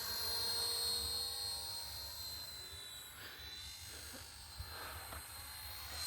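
Small electric RC helicopter in flight: a steady high-pitched motor and rotor whine that grows fainter midway and louder again near the end.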